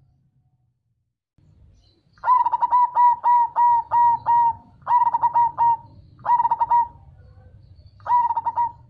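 Zebra dove (perkutut) cooing. After about two seconds of quiet comes a run of about eight quick repeated notes, then three shorter phrases of the song.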